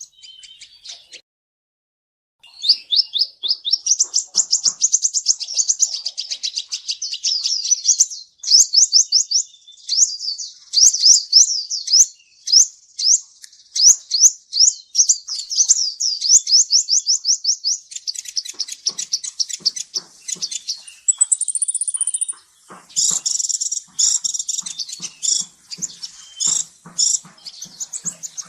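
Kolibri ninja sunbird singing: long, fast, high-pitched trills of rapidly repeated notes after a short pause near the start, with a brief thin whistle partway through.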